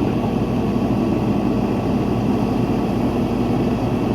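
Truck engine idling steadily, with an even low hum.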